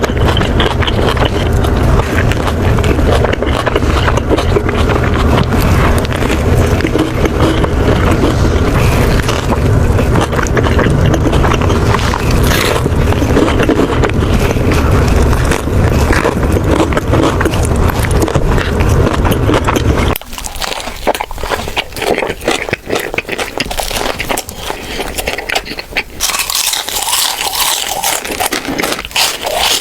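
Close-up sounds of eating a Subway sandwich: biting, chewing and the rustle of the wrapper, over a steady low rumble that stops abruptly about two-thirds of the way through, leaving the eating noises quieter and crisper.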